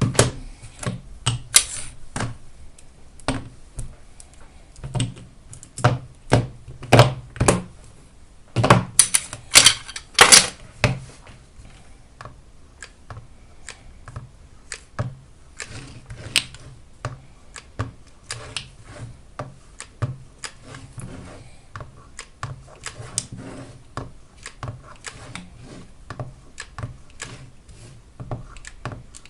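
Battery cells clicking and knocking against each other and the workbench as they are handled and set into groups for a pack. Louder knocks come in the first third, then lighter, scattered clicking.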